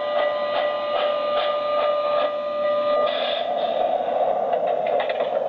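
Lionel model train running on the layout with regular clicking. A steady electronic tone sounds for about the first three seconds, then gives way to a steady hiss.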